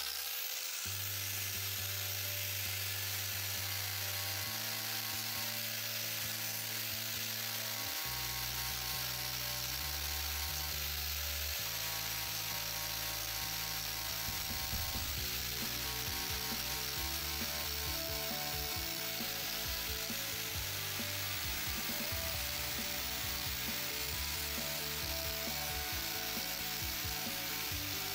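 Angle grinder with a sanding disc running steadily while it grinds rust off a square steel tube, with background music throughout.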